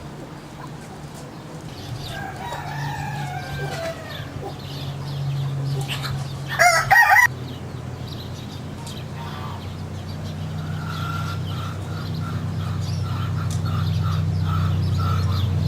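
Chickens calling: soft gliding calls, one loud brief call about seven seconds in, then a string of short clucking notes toward the end. A steady low hum runs underneath and slowly grows louder.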